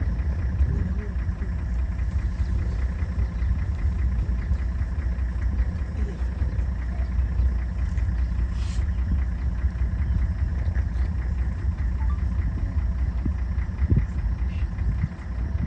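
Motor vehicle engine running steadily, a low rumble heard from on board.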